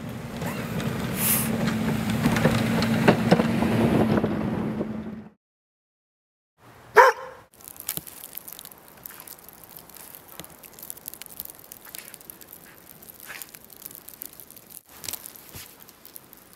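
A vehicle engine running with a steady low hum, cut off suddenly after about five seconds. A dog then gives a single bark, followed by faint crackling and clicks.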